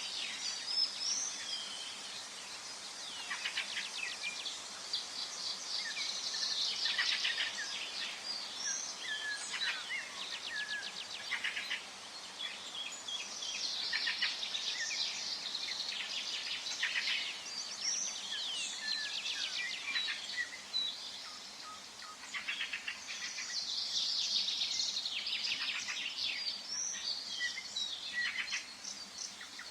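Several forest songbirds singing and chirping together, with rapid trills and short whistles, over a faint steady background hiss; the chorus swells and thins in waves.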